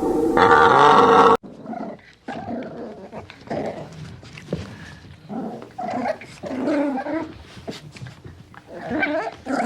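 A dog making short, irregular low vocal sounds in quick groups. It follows a louder, steadily pitched animal call that cuts off suddenly about a second and a half in.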